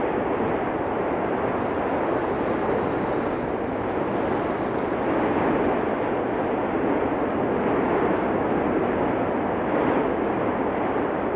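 Steady roar of the erupting Cumbre Vieja volcano, an even rushing noise that swells slightly at times but never stops.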